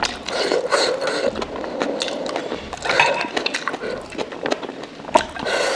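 Close-miked, wet chewing and mouth smacking of momo dumplings in a spicy soup, with many small clicks. Louder wet bursts come three times: at the start, about halfway and near the end.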